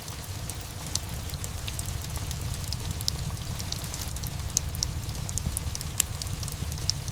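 Ambience mix of steady rain over a low, even rumble, with a fireplace crackling: short, sharp pops scattered throughout, a louder one about six seconds in.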